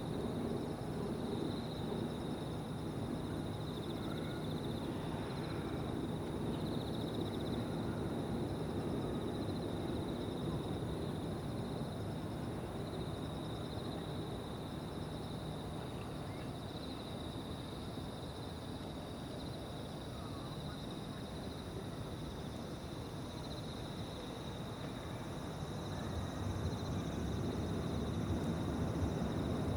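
Evening insect chorus, a steady high-pitched ringing trill, over a low rumble of distant jet aircraft that fades in the middle and swells again near the end.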